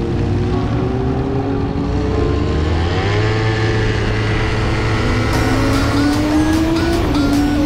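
Suzuki GSX-R750 inline-four with its catalytic converter deleted and an M4 slip-on exhaust, accelerating: the engine pitch climbs steadily and drops at a gear change near the end. Music with a beat comes in about five seconds in.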